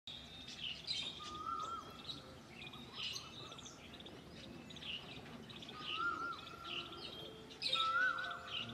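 Several birds chirping and calling throughout, with one lower, warbling whistled call heard three times: about a second in, about six seconds in, and near the end.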